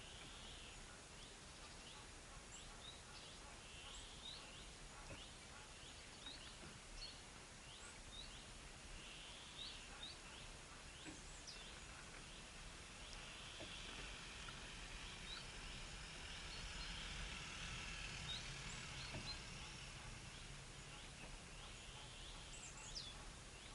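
Small birds chirping faintly, short rising chirps one or two a second, over a steady outdoor hiss, with a denser, hazier chatter for several seconds in the middle.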